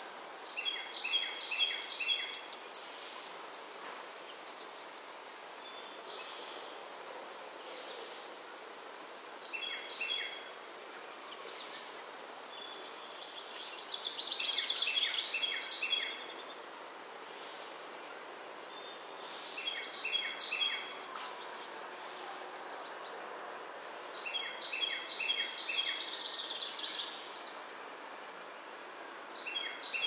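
A songbird singing: a short phrase of quick repeated notes, given again about every four to six seconds, over a steady background hiss.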